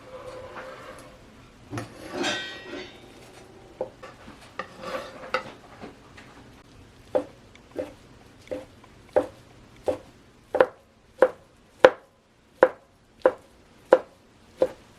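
Kitchen clatter and rustling, then a knife chopping on a cutting board in steady, evenly spaced strokes, a little over one a second, getting louder before they stop near the end.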